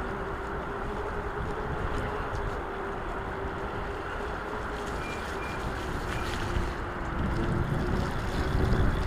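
E-bike being ridden: a steady whine from the motor over a rushing noise and wind buffeting the microphone, with the low wind rumble getting louder near the end.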